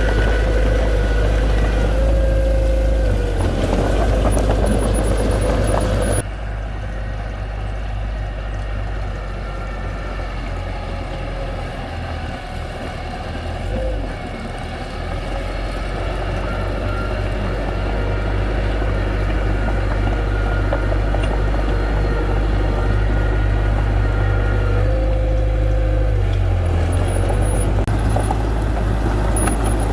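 Diesel engines of heavy earthmoving machinery running steadily. About six seconds in, the sound drops sharply, then slowly grows louder again.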